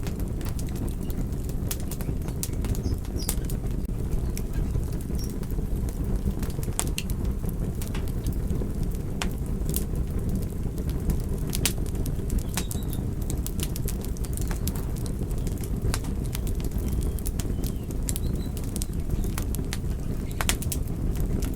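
Fire crackling: a steady low rumble of burning with frequent, irregular sharp pops and snaps.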